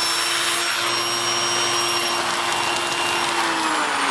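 Dyson Big Ball Animal cylinder vacuum cleaner running at full speed through an add-on SEBO extension hose and turbo tool, with a steady high motor whine and rushing air. The pitch dips slightly near the end.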